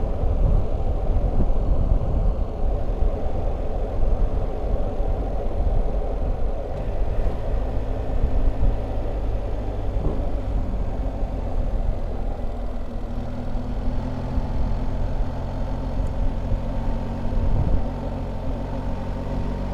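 Wind rush on the microphone at riding speed over a BMW R1300GS's boxer-twin engine running steadily underneath; in the second half the engine's even hum stands out more clearly.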